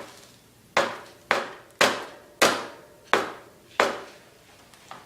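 Six sharp knocks of a hard object being struck, a little over half a second apart, each dying away quickly.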